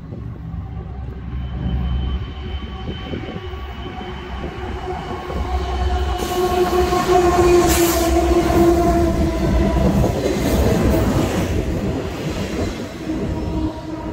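Union Pacific track inspection train, led by a diesel locomotive, approaching and passing close by: a steady engine hum over wheels rolling on the rails. It builds to its loudest as the locomotive goes by about eight seconds in, then eases off as the train moves away.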